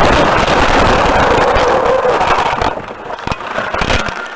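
Loud rushing vehicle noise that starts abruptly, eases after about three seconds, and gives way to a few sharp knocks near the end.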